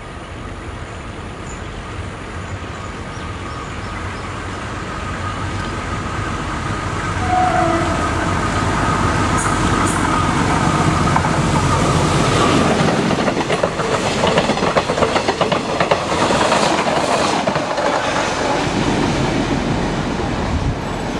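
KTM YDM4 ALCO-design diesel-electric locomotive approaching and passing at speed, its engine running and growing louder over the first dozen seconds. Then comes the rapid clickety-clack of the coaches' wheels over the rail joints as the train goes by, easing off near the end as it draws away.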